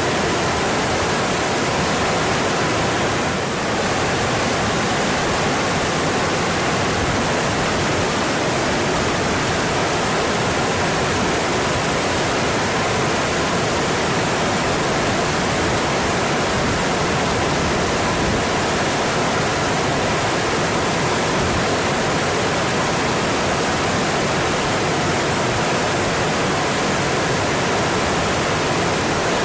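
Mountain stream running over rocks: a steady, dense rush of water, with a slight brief dip about three and a half seconds in.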